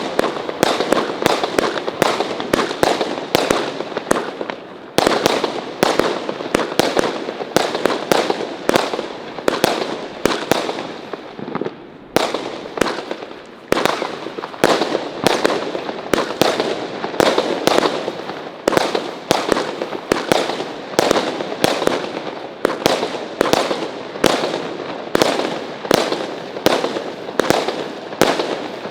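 Consumer firework batteries firing a rapid, unbroken run of sharp bangs and bursts, a few a second, with brief lulls about five and twelve seconds in.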